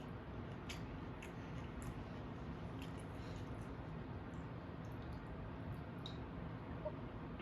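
A person chewing food close to the microphone, with wet mouth sounds and a few small sharp clicks scattered through.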